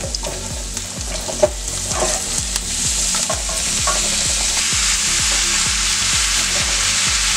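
Diced chilacayote squash tipped into a stainless frying pan of hot oil with softened onion and garlic, a wooden spatula knocking and scraping against the pan. The sizzle builds as the squash lands in the oil and settles into a steady frying hiss from about halfway through.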